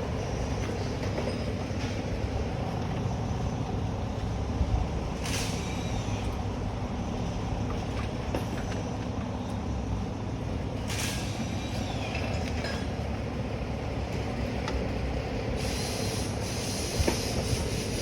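Steady road noise of a vehicle towing a car on a trailer at speed: a continuous rumble and rattle with hiss, with brief hissing swells about 5 and 11 seconds in, and a brighter hiss near the end.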